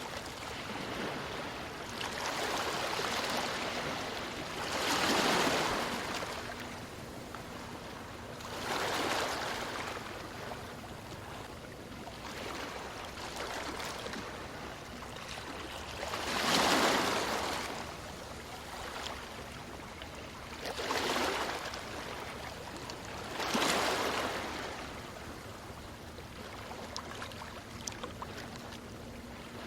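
Small waves breaking on a stony shore: a steady wash of water, with a louder surge of hiss swelling and falling back every few seconds, five times.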